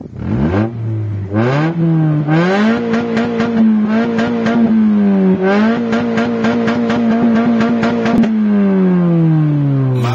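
BMC B-Series inline four-cylinder engine revving: the note climbs in steps over the first couple of seconds, holds high with a brief dip about five seconds in, then falls away as the revs drop over the last two seconds.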